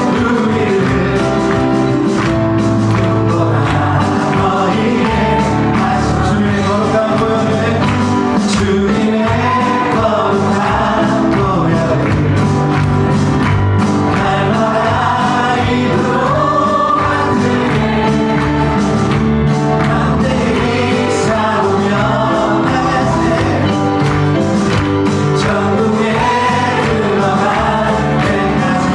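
Contemporary worship song sung by a group of voices with a band accompanying.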